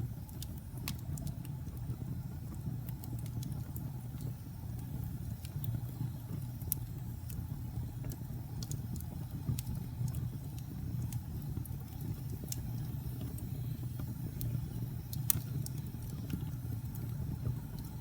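Wood fire crackling: scattered sharp pops and snaps over a steady low rumble, with one louder pop about fifteen seconds in.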